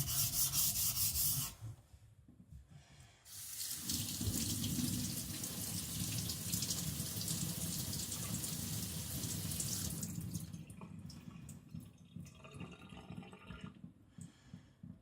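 A kiridashi blade ground on a water stone in quick back-and-forth strokes, which stop about a second and a half in. From about three seconds in, water runs steadily from a tap for some seven seconds, as in rinsing the stone or blade. Then it cuts back to faint handling clicks.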